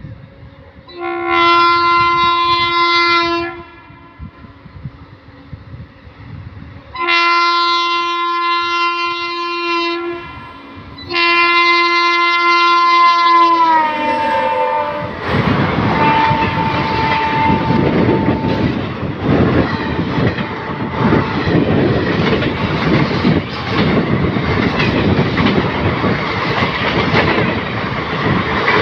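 WAP-7 electric locomotive's horn sounding three long blasts as the express approaches. The last blast drops in pitch as the locomotive passes. Then the coaches rush by with a loud, rapid clatter of wheels over the rails.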